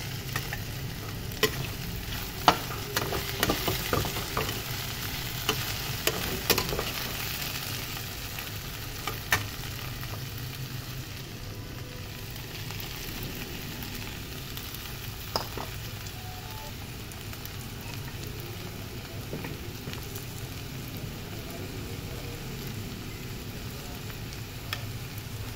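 Okra sizzling as it fries in a metal kadhai, a steady frying hiss throughout. A utensil clicks and scrapes against the pan now and then, mostly in the first ten seconds or so.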